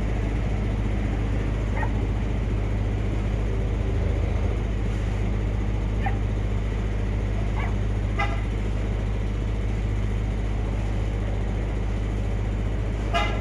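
A dog giving a few short, high yips and whimpers, spaced out, with a louder one near the end. Under them runs a steady low hum.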